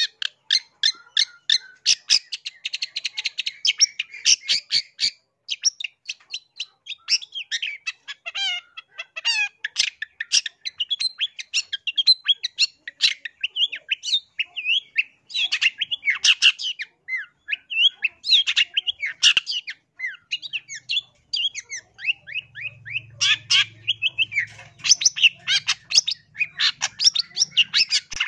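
Long-tailed shrike (cendet) singing a continuous, rapid song of varied chattering notes, short harsh calls and quick trills, with hardly a pause.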